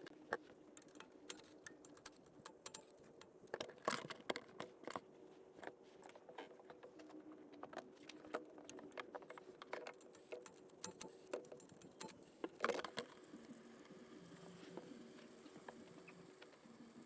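Scattered light taps and clicks of hand tools and parts handled during work under a car, with louder knocks about four seconds in and near thirteen seconds.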